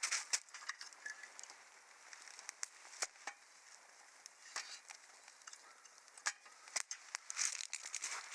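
Wood fire crackling in a fire pit: irregular sharp pops and snaps, with a few short, hissy flare-ups near the start and again late on.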